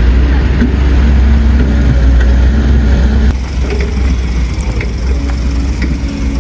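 Heavy diesel machinery engine running steadily with a deep rumble and a few light knocks. The sound drops and changes abruptly about three seconds in.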